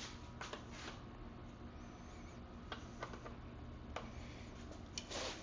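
Faint, scattered metallic clicks and taps of a hand wrench working the rear brake adjuster nuts on a vintage dirt bike, with a short rattle near the end.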